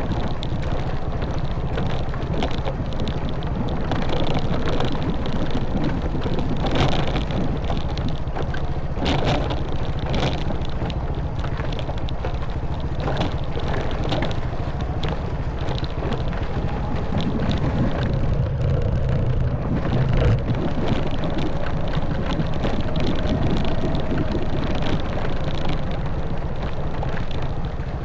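Honda Wave 110cc single-cylinder four-stroke motorbike engine running steadily under way, with wind buffeting the microphone. Frequent short knocks and rattles come from the bike jolting over a rough forest track. The engine note swells briefly about two-thirds of the way through.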